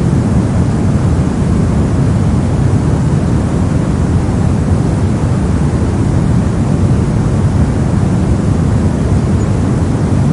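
Steady soft noise, a deep, even hiss weighted toward the low end and fading toward the highs, with no change in level.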